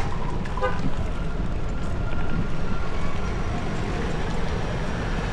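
Wind rumbling on the microphone over steady road traffic noise, with a brief high chirp about half a second in.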